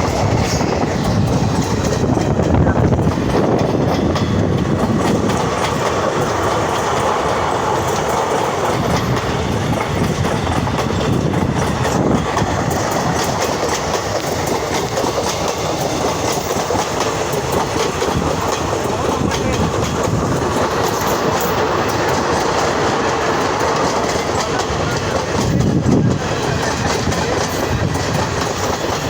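Indian Railways train running on the track, its wheels and cars rattling and clacking steadily over the rails.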